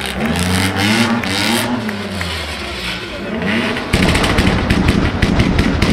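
Stunt car engine revving hard in repeated rising and falling sweeps while drifting. About four seconds in, the sound switches abruptly to a rapid, rough pulsing, many beats a second.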